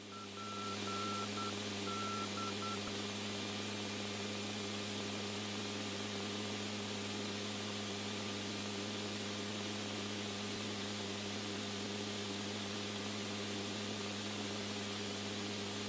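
Steady hiss with a low electrical hum from an open radio or intercom channel. In the first three seconds there is a run of short, same-pitched beeps.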